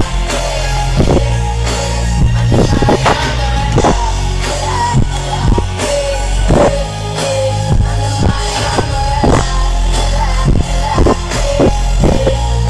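Live pop-rock band music at a concert: a steady drum beat over bass and guitar, with a sung vocal line.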